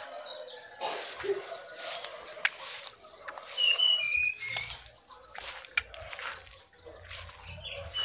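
Leaves and brush rustling as someone pushes through dense undergrowth, with a bird giving a quick series of short, high chirping whistles about halfway through.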